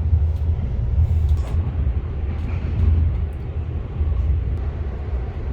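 Steady low rumble of an intercity train carriage running along the track, heard from inside the carriage.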